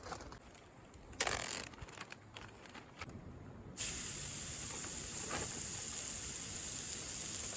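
A few light knocks and rustles, then about four seconds in a steady frying sizzle starts abruptly as steak goes into a hot oiled pan over campfire coals.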